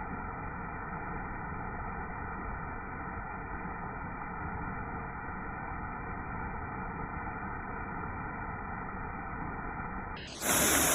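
Steady, muffled rushing noise, with a loud burst of hiss near the end.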